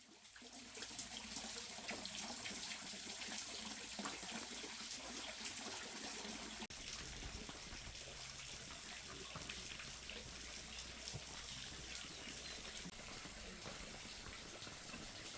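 Steady trickle of running water with small ticks and splashes, fading in at the start and briefly cutting out about seven seconds in.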